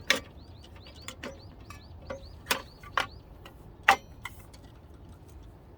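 Campfire wood crackling, with sharp irregular pops about every half second to second, the loudest a little before the four-second mark. A bird calls in short runs of quick, repeated high chirps between the pops.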